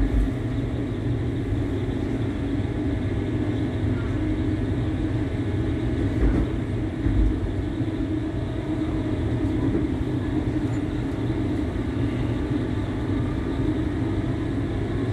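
Passenger train heard from inside the carriage while running: a steady rumble and hum, with two low bumps about six and seven seconds in.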